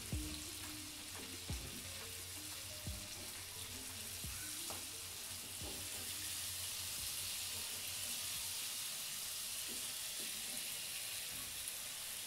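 Masala-coated eggplant slices sizzling steadily as they shallow-fry in oil and butter on a flat pan over a low flame. A spatula knocks and scrapes against the pan several times in the first half as the slices are turned over.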